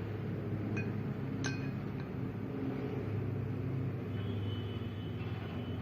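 Two light metallic clinks, about a second and a second and a half in, as steel parts of a motorcycle's rear sprocket hub are handled and fitted, over a steady low hum.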